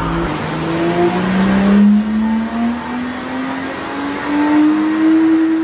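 Lexus IS200's 1G-FE 2.0-litre straight-six, still naturally aspirated, pulling up through the revs under load on a chassis dyno, its pitch climbing steadily. The run cuts off suddenly at the end.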